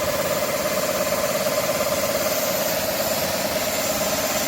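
Shark PowerPro cordless stick vacuum running steadily below its maximum power setting, a constant motor whine over the rush of air.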